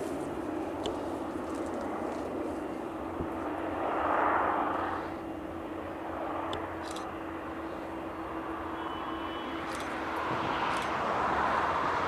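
Light propeller aircraft engine droning steadily, with a rushing noise that swells twice.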